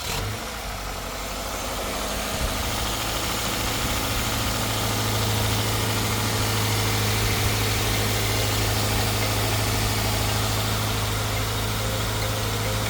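Subaru FB25 2.5-litre flat-four engine just after starting, running at idle. It settles about two seconds in and then idles steadily with an even low hum.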